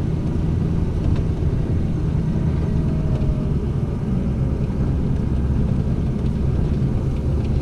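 Motor vehicle driving slowly over rough pasture ground: a steady engine and body rumble.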